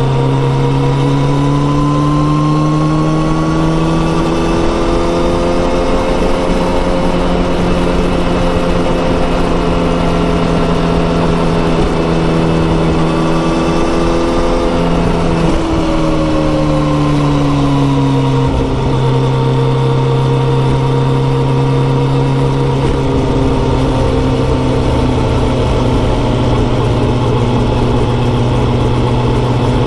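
Kawasaki ZX-14R's inline-four with a Yoshimura exhaust running at road speed. The engine note climbs slowly for about fifteen seconds, falls away about halfway through, then holds steady.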